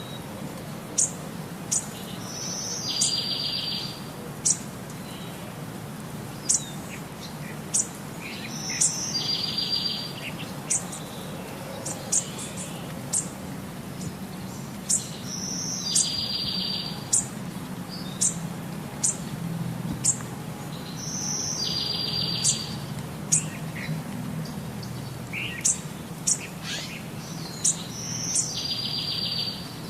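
Birds chirping: short, sharp high chirps about once a second, and about every six seconds a call that ends in a buzzy trill lasting about a second.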